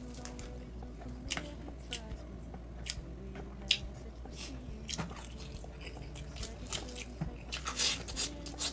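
A person chewing food close to the microphone, with short wet mouth clicks and smacks at irregular intervals.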